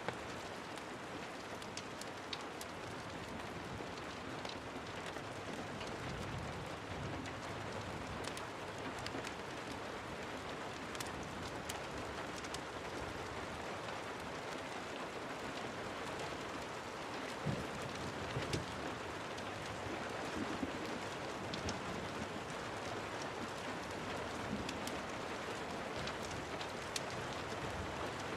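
Steady rain, an even hiss of rainfall on surfaces, dotted with scattered sharp ticks of individual drops, and a few louder low knocks a little past halfway.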